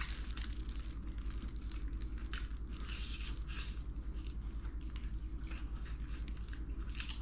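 A person chewing food at close range, with scattered small crunches and clicks of the mouth, over a steady low hum.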